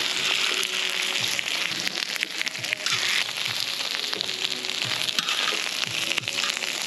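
Shrimp frying in hot oil, a steady sizzle with fine crackling, strongest in the first second or two.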